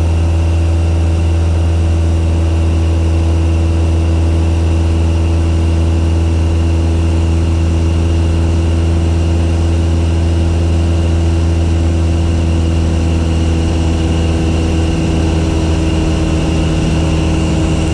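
Cessna 172's piston engine and propeller running steadily at power, a constant drone with a strong low hum and no change in pitch.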